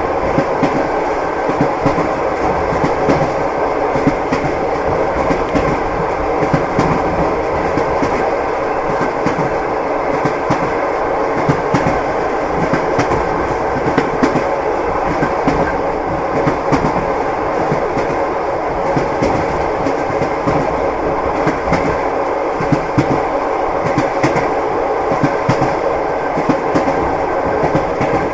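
Train wheels clattering along the rails, heard from inside a passenger car's sleeping compartment: a steady running noise with scattered short sharp clicks.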